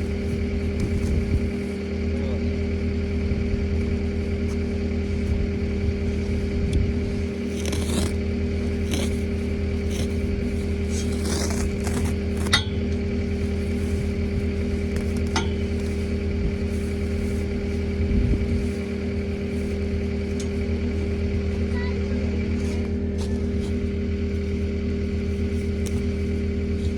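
Skid steer engine running at a steady speed, with a cluster of scrapes and knocks between about eight and thirteen seconds in.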